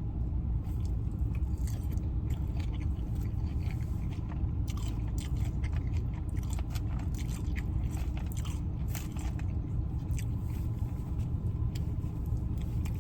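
Close-up chewing and crunching of food: a steady run of small crisp bites and mouth clicks, with a steady low rumble underneath.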